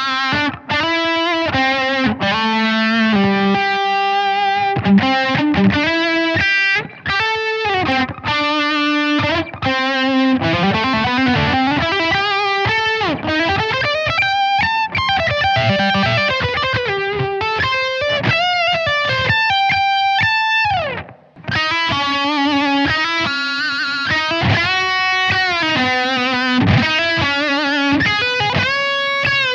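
Electric guitar played through a GIGAGAIN Gianster hi-gain preamp pedal, heavily distorted. It plays riffs and lead lines with string bends. A little over two-thirds through, a note slides down in pitch and the sound breaks off briefly before the playing resumes.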